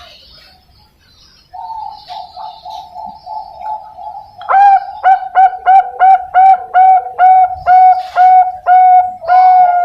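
Young Bangkok-strain zebra dove (perkutut) cooing: a soft, fast run of rolling notes, then about halfway in a loud series of about a dozen short, evenly spaced coos, the last one drawn out a little longer.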